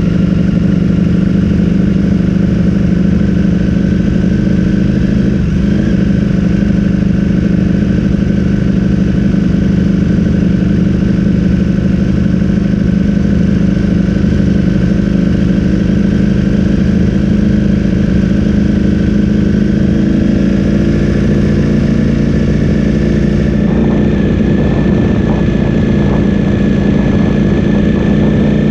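Ducati Streetfighter V4S's V4 engine running through a full Akrapovic exhaust, holding steady revs for a long stretch. Its pitch rises a little near the end, and some rattle comes in.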